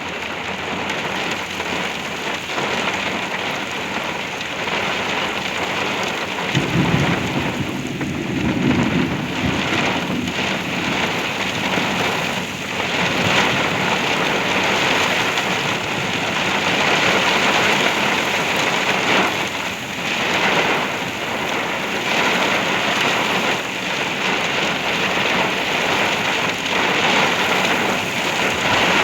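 Very heavy rain pounding on a truck's roof and windshield, heard from inside the cab, with gusty wind making it swell and ease. A low rumble of thunder rolls through about seven seconds in.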